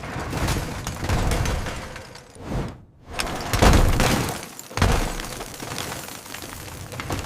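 Cartoon demolition sound effects: a run of loud crashes with breaking and shattering debris, the loudest about three and a half seconds in.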